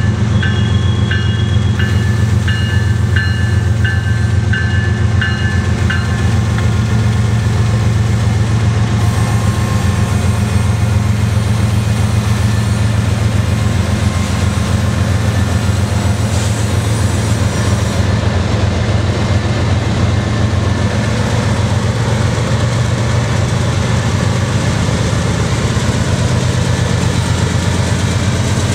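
Two CN General Electric diesel locomotives, an ES44DC and a C44-9W, pass close by with a steady, loud low engine drone, followed by covered hopper cars rolling past. A bell dings repeatedly at an even pace for the first six seconds.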